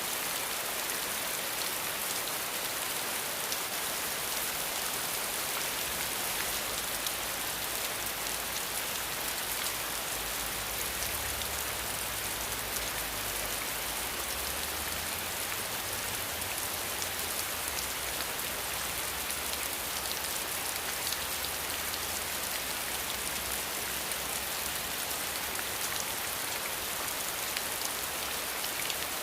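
Steady heavy rain falling, a dense even hiss of many drops. A faint low rumble sits underneath through most of the middle.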